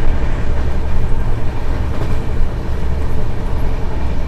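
Express passenger train in motion, heard from inside the coach: a steady, loud rumble of wheels running on the track.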